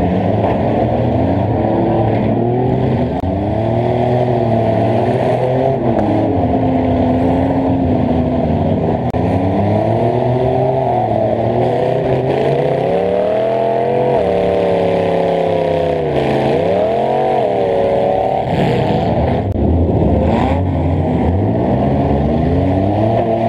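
Demolition derby car's engine revving up and down again and again under hard throttle. A few sharp knocks from collisions come about three quarters of the way through.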